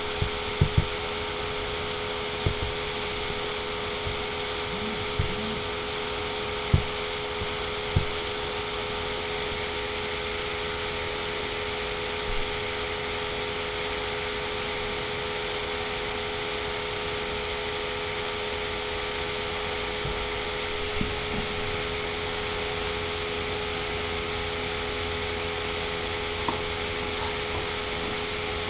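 Steady electrical hum and hiss of background noise, with a few soft, low knocks scattered through the first eight seconds and one or two more later.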